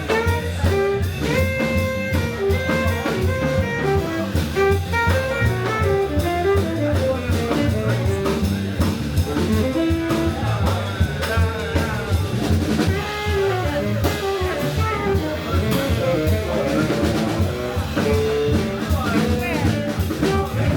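Live jazz band playing: a melody line stepping over a walking bass line, with drum kit and cymbals keeping time.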